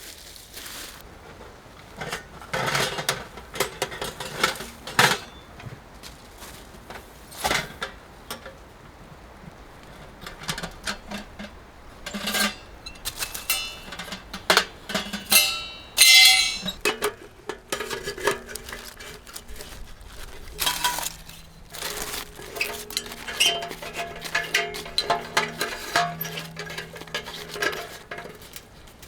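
Metal camping gear being handled: a string of clinks and clanks at irregular intervals, with a bright ringing clank about halfway through.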